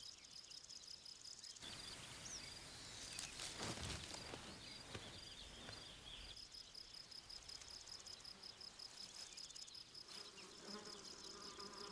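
Faint insect chorus: a high, rapidly pulsing trill that carries on steadily.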